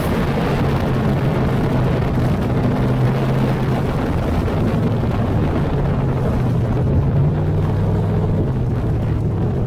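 Race car engines running hard during a heat race, a loud steady drone from several engines whose pitch shifts slightly up and down.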